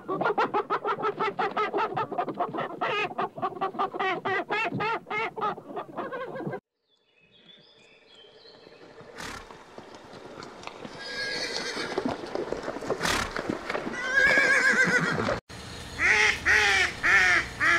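Animal calls in separate segments with abrupt cuts between them: a fast run of repeated calls for the first six seconds or so, then silence, then a mixed stretch of calls growing louder, and after a second cut a short series of repeated calls near the end.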